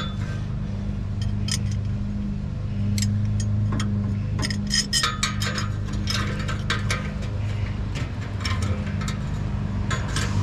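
Small metal parts clinking and clicking as they are handled, over a steady low hum.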